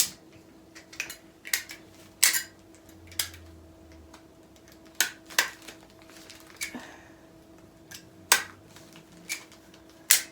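A desk stapler clacking and paper party packs being handled on a table: about a dozen sharp, separate clicks and knocks at uneven intervals, one of the loudest a little past eight seconds in.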